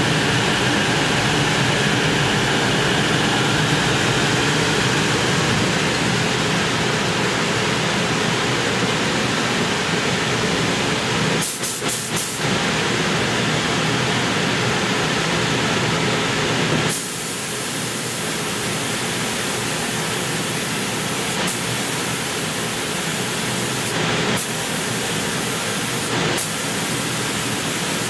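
Exhaust hood fan running with a steady rush of air. The sound briefly thins about twelve seconds in and drops slightly in level a few seconds later.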